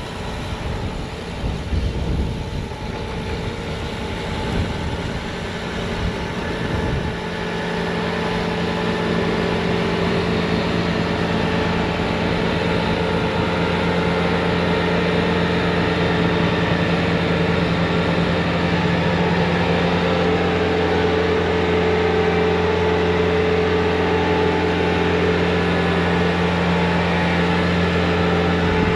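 Bobcat T66 track loader's diesel engine running with its snowblower attachment. The first several seconds are an uneven rushing sound; from about seven seconds in it settles into a steady, even hum.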